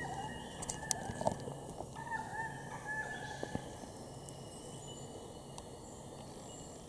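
Wild bird calling, a series of wavering, warbling notes during the first three seconds or so, with a few sharp clicks among them.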